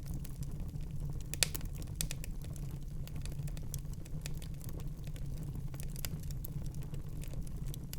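Wood fire in a fireplace crackling, with irregular small snaps and a sharper pop about a second and a half in, over a steady low rumble of the flames.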